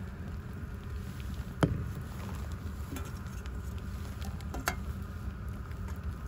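A few sharp knife strikes, about a second and a half apart, chopping asparagus on a cutting board, over a steady low rumble.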